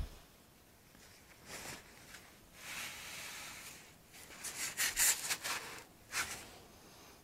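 Workbench handling noise while fitting parts into a foam wing core: a few bouts of scraping and rubbing, with a quick run of short strokes a little past the middle.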